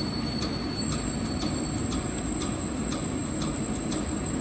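Automatic fish-cake cutting machine running empty after its fish paste has run out: a steady motor hum with a high whine and a regular click about twice a second.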